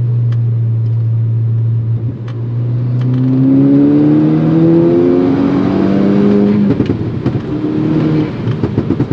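Turbocharged 2.0-litre four-cylinder of a tuned MK6 Golf R through a custom turbo-back exhaust: a steady drone at cruise, then the note climbs in pitch for about three seconds under acceleration. Near the end the sound turns choppy and uneven as the throttle comes off, then settles back to a steady drone.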